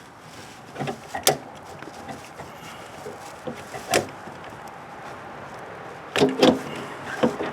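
Hand work on parts inside a car door: a few sharp clicks and knocks, with a quick cluster of knocks near the end.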